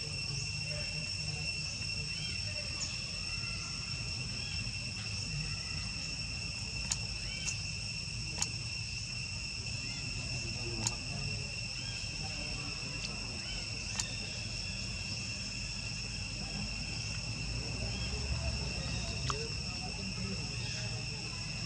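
Insects, likely crickets, keeping up a steady high-pitched trill without a break. A few sharp clicks come through it, mostly in the middle stretch.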